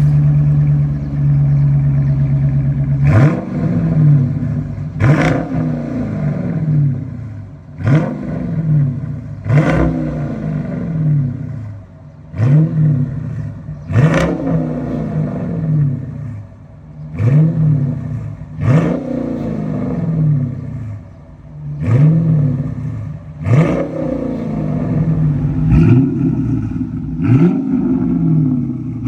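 Dodge Challenger engine heard through a custom exhaust with Carven mufflers. It idles steadily for about three seconds, then is blipped hard over and over, a quick rise and fall in pitch about every second and a half.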